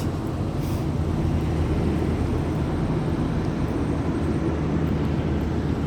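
Heavy truck engine running with a steady low hum and no sudden changes.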